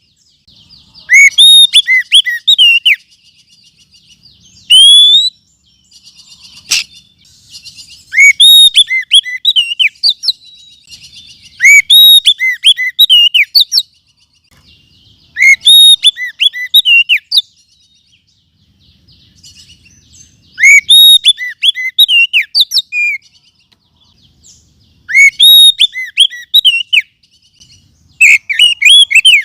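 Oriental magpie-robin song from a bird-lure recording: loud phrases of sweet, swooping whistles, each about two seconds long, repeated every four seconds or so, with fainter twittering between them.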